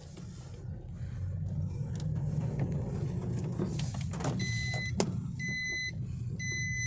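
Car running with engine and road noise inside the cabin, growing louder over the first couple of seconds as the car gets going. From about halfway through, a dashboard warning chime beeps steadily about once a second, with a single sharp click between the beeps.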